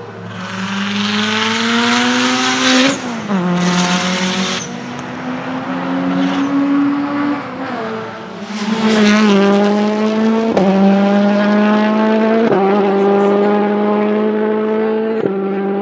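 A high-performance car engine accelerating hard through the gears. Its pitch climbs and drops sharply at each upshift, about three, ten and a half, twelve and a half and fifteen seconds in. A loud rushing noise sits over the engine for the first four seconds or so.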